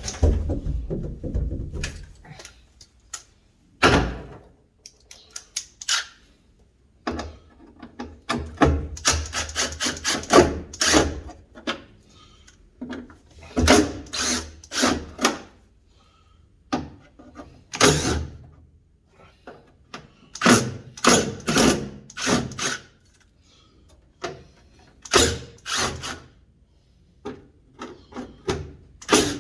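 Tools working on the vent panel in a pickup's cab wall: irregular knocks, clicks and short rattling runs, coming in clusters with pauses between them.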